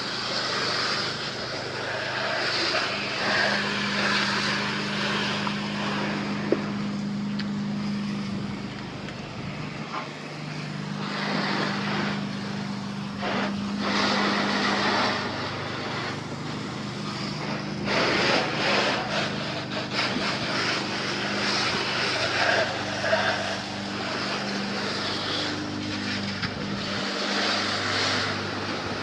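Garden hose spray nozzle hissing as water rinses soap off a car's body, the spray rising and falling in loudness as it moves over the panels. A steady low hum runs underneath.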